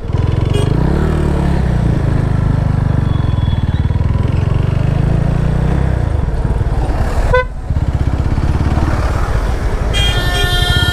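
Yamaha FZ25 motorcycle's single-cylinder engine running under way, its pitch rising and falling with the throttle, with a short break about seven seconds in. A vehicle horn sounds near the end.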